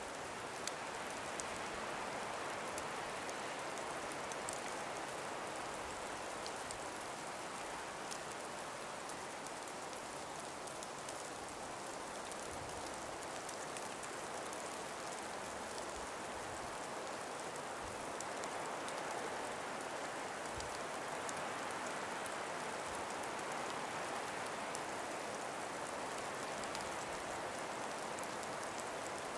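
Steady, even hiss of a calm breeze through an ice- and snow-laden forest, slowly swelling and easing, with faint scattered ticks.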